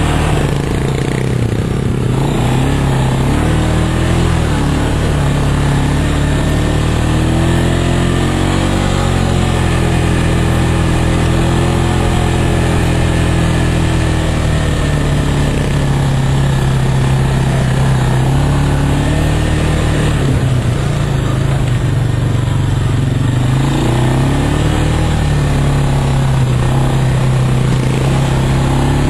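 Off-road vehicle's engine running while being driven, its pitch rising and falling with the throttle, loudest and highest about ten seconds in and again briefly near the end.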